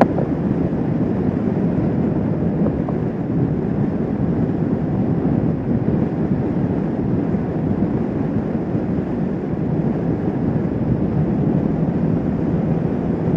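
Kawasaki Vulcan S 650's parallel-twin engine running steadily at cruising speed, with wind rushing over the microphone.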